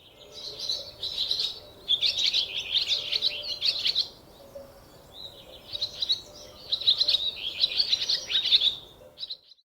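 A squirrel giving rapid, high-pitched chirping calls in two long bouts of about three to four seconds each, with a short pause between them and a brief burst near the end.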